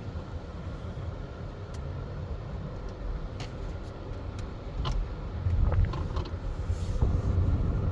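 Car on the road, a steady low rumble of engine and road noise that grows louder about five and a half seconds in, with a few faint ticks.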